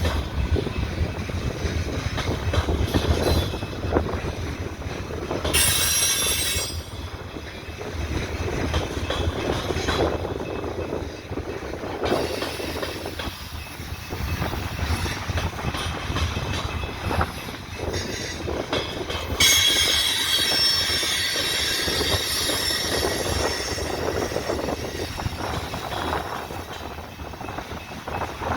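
Coal train's freight cars rolling on the rails with a steady rumble and clack of steel wheels. Wheel flanges squeal briefly about six seconds in, then again for most of the last nine seconds.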